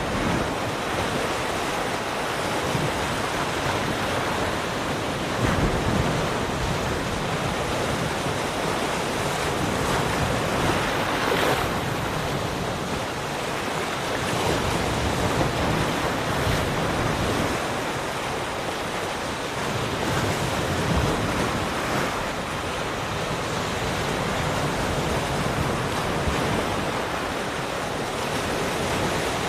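Ocean waves breaking and washing on a shore in a continuous roar that swells and eases every few seconds, with some wind on the microphone.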